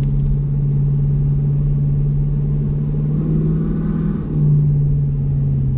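Ford 6.7 Power Stroke V8 turbodiesel running through a 5-inch straight-pipe exhaust, pulling under load uphill with a steady low note. About four seconds in, the note dips briefly and then comes back louder.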